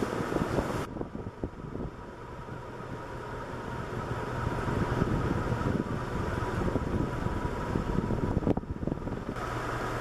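1991 SMC Promo Deluxe 90 cm ceiling fan running on high speed, about 300 RPM: a steady rush of moving air with an irregular low rumble and a faint steady hum.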